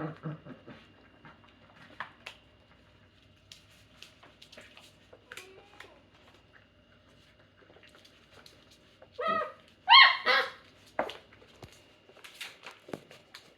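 Newfypoo puppies: scattered small clicks and knocks, then two short, loud pitched whining yips about nine and ten seconds in, followed by a few fainter ones.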